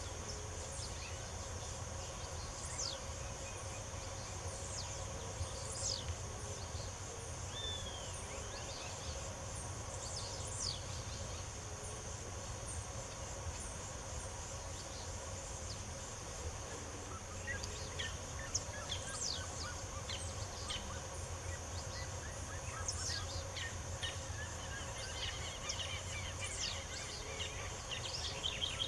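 Birds chirping and calling in many short, high, quick notes over a steady high insect drone, with a low rumble of background noise beneath. The chirps grow busier in the second half.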